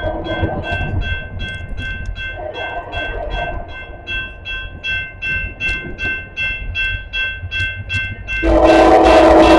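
Grade-crossing warning bell dinging in a rapid steady rhythm over the low rumble of a passing CSX freight train. About eight and a half seconds in, the locomotive's air horn starts a loud sustained blast.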